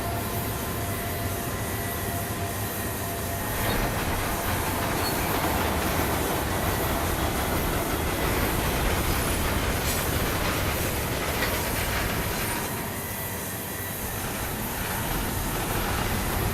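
CSX freight train rolling past, with a steady rumble and rattle of wheels on rail and faint wheel squeal in the first few seconds. It gets louder about four seconds in and eases for a couple of seconds near the end before building again.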